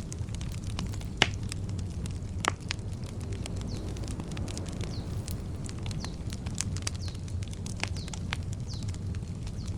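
Wood campfire crackling, with many small snaps and two louder pops about one and two and a half seconds in, over a steady low rumble. Faint short bird chirps sound now and then.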